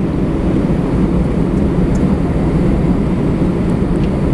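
Airbus A320 jet engines running, heard from inside the passenger cabin as a loud, steady low rumble.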